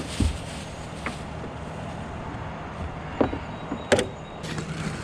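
Bucket truck engine running steadily, with a few sharp clicks and knocks from handling ratchet straps, the loudest near the end.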